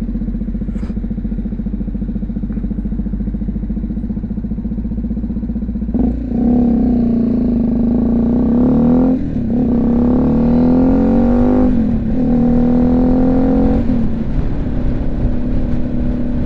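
BMW G310GS single-cylinder engine running steadily, then accelerating from about six seconds in, its pitch rising and dropping back at two upshifts before the throttle eases off near the end. Heard through a helmet mic with wind noise.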